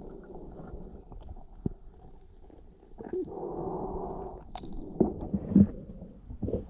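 Muffled gurgling and sloshing of water on a camera during a snorkel in a creek, with a swell of noise about three seconds in and a few sharp pops and knocks about five seconds in.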